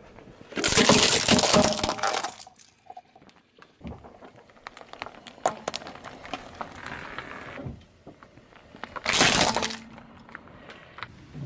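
Objects cracking and breaking under a car tyre. There are two loud breaking bursts, one about half a second in and one near the end, with scattered crackling and snapping between them.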